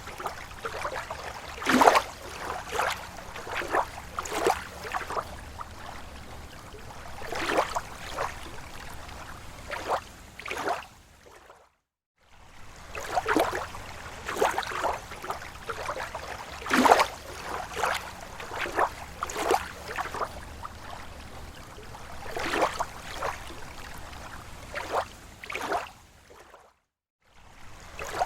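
Small slow waves lapping against a lake shore, in irregular slaps and sloshes over a steady wash of water. The sound cuts out completely for about half a second twice.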